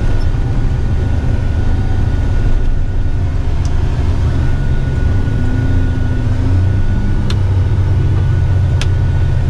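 Heavy rigid truck's engine running on the road, a steady low drone heard from inside the cab, with a few faint clicks.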